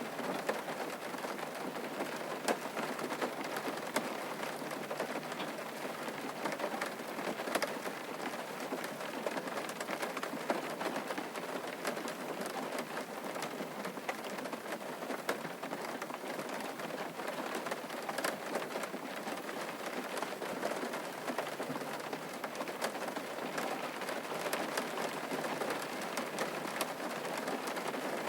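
Steady rain falling on a surface, a dense even patter with many individual drop ticks scattered through it.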